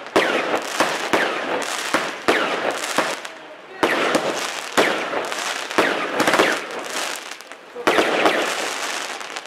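Zena 'Zangfei' firework from the Warrior Collection firing: sharp bursts every half-second to a second, each trailed by a dense crackling spray of sparks. There are short lulls about three and a half and seven and a half seconds in.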